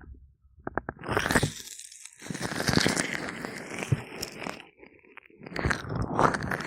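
Gloved, oiled hands rubbing and massaging an ear microphone up close: a dense crackle of fine clicks and rubbing that starts about a second in, dips briefly near five seconds, then picks up again.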